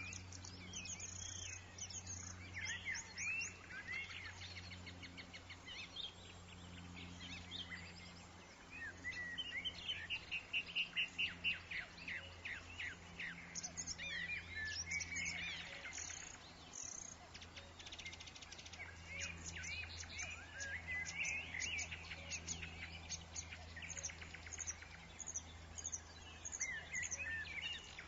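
Woodland birds chirping and singing, several at once, with short chirps and quick whistled glides throughout and a fast, rapid trill about ten seconds in. A steady low hum runs underneath.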